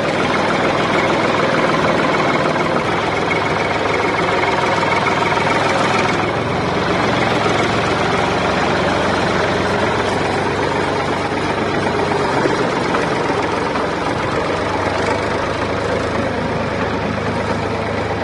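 A machine engine running steadily, cutting in abruptly at the start.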